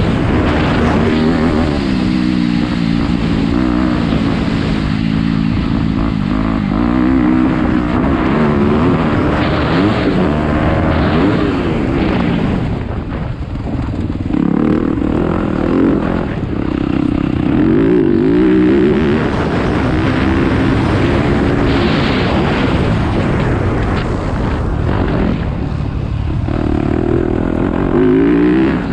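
Dirt bike engine revving, its pitch climbing and dropping again and again as the throttle is opened and closed.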